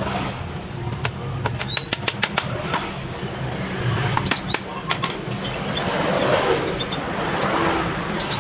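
Hammer tapping small nails to fix legs onto a bird cage: a quick run of about six light taps a second or two in, and two more just past four seconds in, over a low steady rumble.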